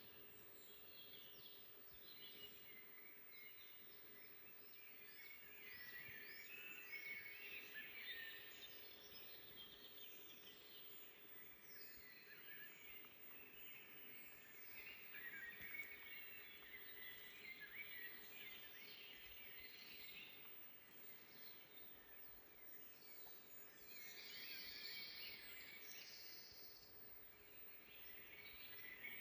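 Faint chorus of several songbirds chirping and singing in a forest, a dense run of short chirps and quick falling notes overlapping one another.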